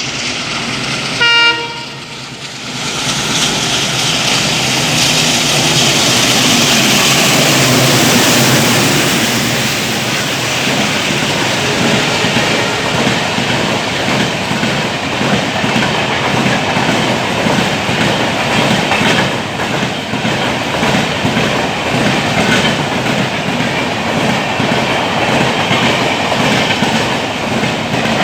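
WDM3A diesel locomotive gives one short horn blast about a second in, then runs through at speed, followed by its coaches passing with a steady clickety-clack of wheels over the rail joints.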